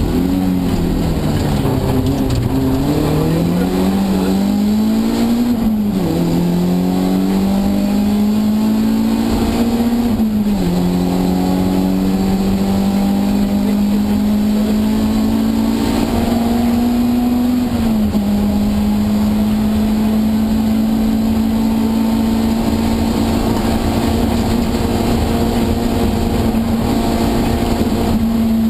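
BMW 318is E30 rally car's four-cylinder engine heard from inside the cabin, accelerating hard. The engine note climbs through the gears with three sharp upshifts, the last about two-thirds of the way through, then holds a steady high-revving note at speed.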